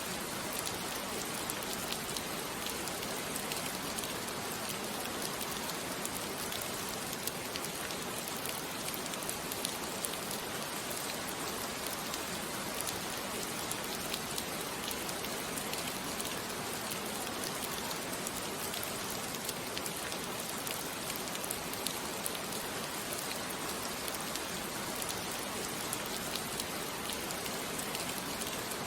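Steady rain falling, an even patter of drops with many small ticks.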